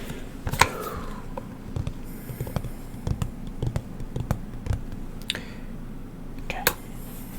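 Hands tapping and clicking small hard objects close to the microphone: scattered sharp clicks and taps, a few a second, with a short hiss about two seconds in.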